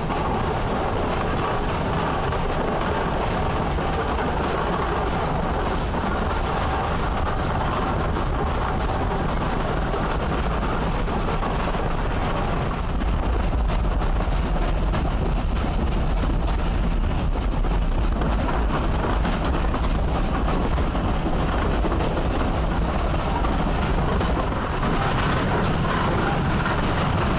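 Ida Bay Railway narrow-gauge tourist train running along the track, a steady rumble that grows a little louder about halfway through.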